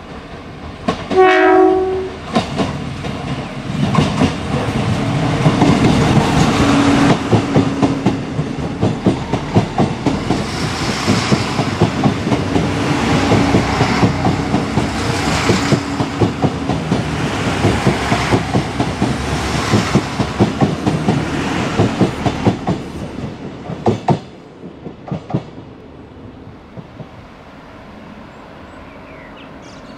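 A short train horn blast, then an Irish Rail 29000 class diesel multiple unit runs over jointed track, its wheels clicking rapidly and evenly over the rail joints above a steady engine drone for about twenty seconds. The clicking then dies away to a quiet background.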